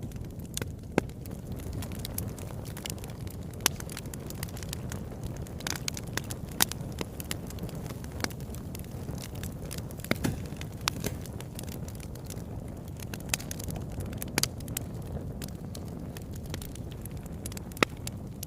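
Wood fire burning in a fireplace: a steady low rumble of the flames with frequent irregular crackles and sharp pops of the burning logs.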